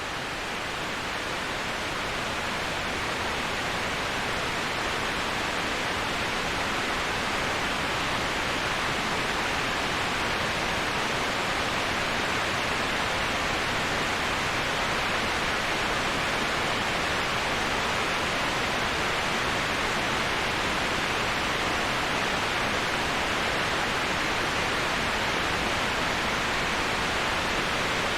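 Steady rushing of a waterfall: an even hiss with no breaks. It grows slightly louder over the first few seconds, then holds level.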